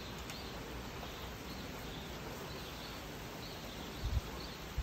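Steady hiss of rain falling, with faint bird chirps repeating about twice a second. A couple of short low thumps about four seconds in.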